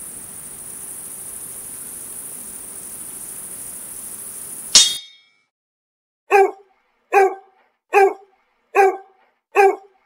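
Crickets chirring steadily, cut off by a single metallic sword clang that rings briefly. About a second and a half later a dog barks five times, evenly spaced.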